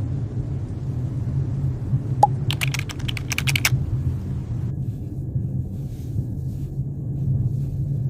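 A quick run of about a dozen sharp clicks over roughly a second, preceded by a single click, over a steady low hum.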